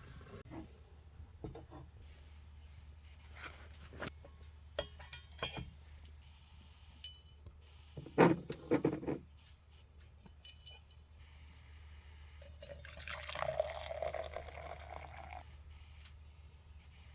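Scattered clinks and knocks of hard containers, with a louder cluster of knocks about eight seconds in, then liquid being poured for a few seconds.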